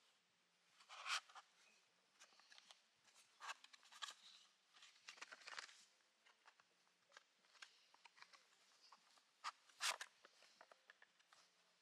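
Quiet, scattered clicks, scrapes and rustles of objects being handled, with a louder knock about a second in and another near the end.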